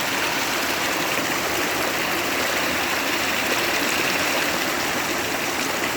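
A canyon stream running with a steady, unbroken rush of water.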